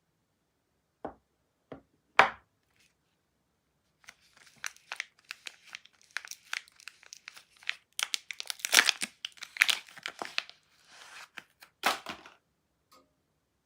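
A soap bar's wrapper being torn open and crinkled by hand: a long, dense run of rustling and tearing. Three short knocks come before it, in the first couple of seconds.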